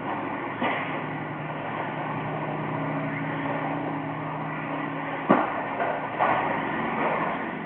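Radio-controlled stock trucks racing, their motors running with a steady hum. There is a sharp knock about five seconds in and a few lighter knocks after it.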